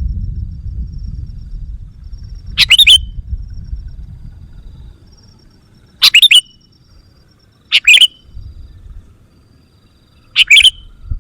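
Sooty-headed bulbul (kutilang) calling: four short, loud bursts of quick chattering notes a few seconds apart, with faint thin high notes between them. A low rumble fades out over the first few seconds.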